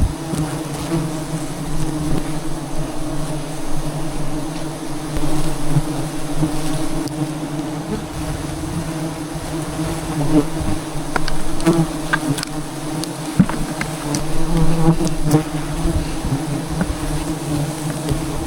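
Dense, steady buzzing of a swarm of wild bees around their nest, a continuous drone. A few sharp clicks and knocks come in the second half.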